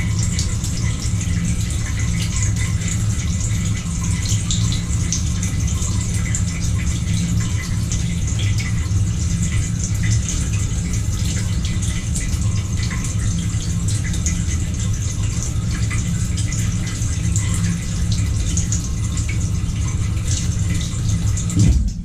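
GE GDT655SSJ0SS dishwasher running: its pump hums steadily under the hiss and splash of water spraying inside the tub, in a unit whose lower spray arm is not spinning. The sound cuts off abruptly near the end.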